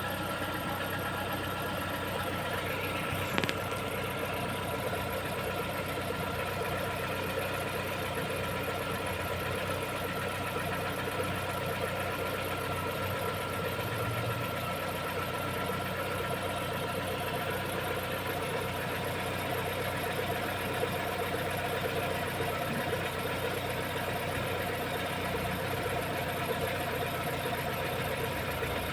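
Lada Vesta SW engine idling with a chirping squeak from the alternator drive belt, a sound like a bearing chirping. The squeak comes on after the car has stood overnight and fades as the engine warms, and silicone on the belt quiets it for a while. There is one short click about three and a half seconds in.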